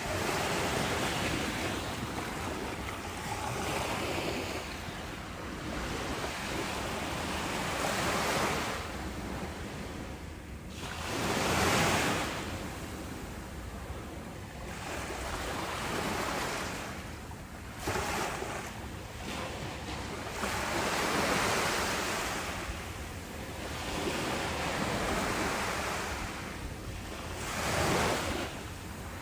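Ocean waves breaking and washing on a shore, swelling and ebbing every few seconds, with a louder surge about twelve seconds in and another near the end.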